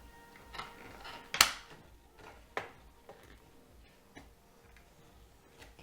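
Plastic parts of a refrigerator's temperature control unit being handled and clipped together: a sharp snap about a second and a half in, with softer clicks and taps before and after it.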